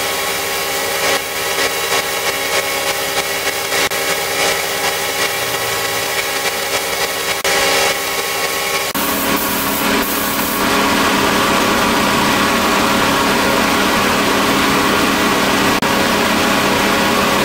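A power tool's motor running steadily. About nine seconds in its sound changes, growing louder with a deeper hum.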